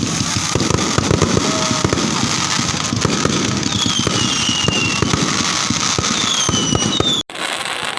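Fireworks display: a dense, continuous barrage of bangs and crackles, with a few high falling whistles midway. The sound drops out for an instant near the end.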